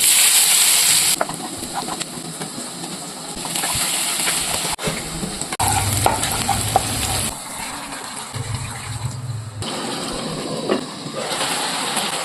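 Food sizzling as it fries in a pan, with a spoon stirring and scraping against the pan in short clicks. The sound changes abruptly several times.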